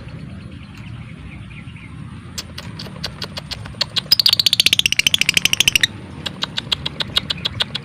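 Lovebird calling: sharp ticking chirps start about two seconds in and run together into a loud, fast chattering trill of about a dozen notes a second for roughly two seconds, the 'ngekek' chatter. It then breaks back into spaced ticks.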